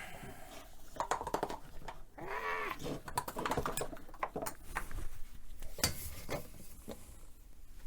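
Small objects clicking and knocking as they are picked up and set down while a shelf is cleared and wiped, with one short squeak about two seconds in.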